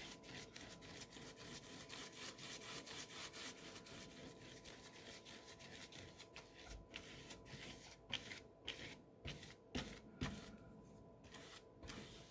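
Brush scrubbing thick gouache across paper in rapid back-and-forth strokes, a faint rubbing and scratching that turns sparser toward the end.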